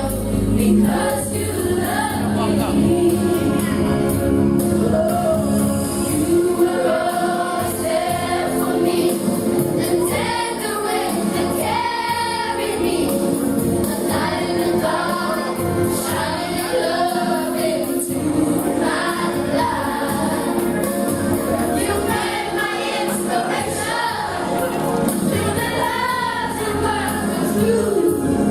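Choir singing a gospel hymn with musical accompaniment.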